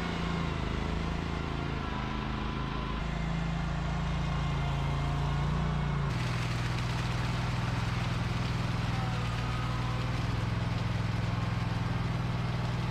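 An engine running steadily; about six seconds in, its pitch changes abruptly.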